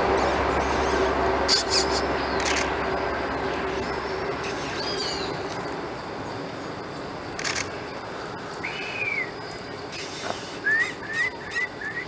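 Birds calling: scattered slurred whistled notes, ending in a quick run of four short rising notes, over a steady background hiss with a few sharp clicks.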